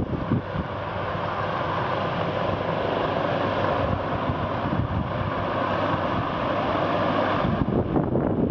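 Helicopter engine and rotors running steadily and growing slightly louder, with wind buffeting the microphone near the end.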